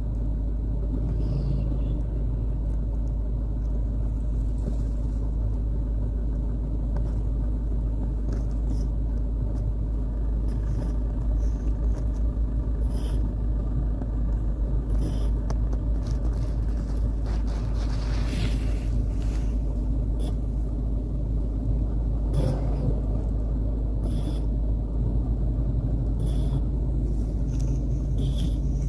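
Red Shiba Inu snoring in its sleep: a low, steady rumble.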